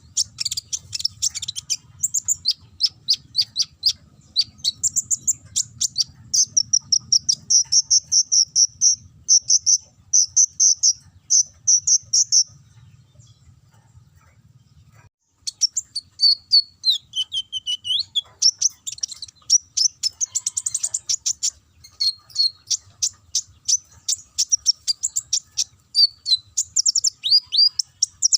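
Kolibri ninja sunbird singing canary-style song: rapid, high-pitched chattering trills and short downward-sweeping notes, stopping for a couple of seconds about halfway through before starting again. A faint low hum lies underneath.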